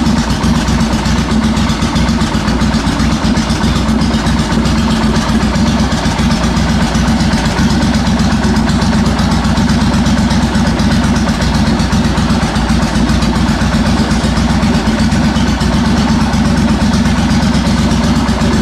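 Suzuki VS1400 Intruder's 1360 cc V-twin idling steadily through a Jardine full-system slashcut drag exhaust, loud and even.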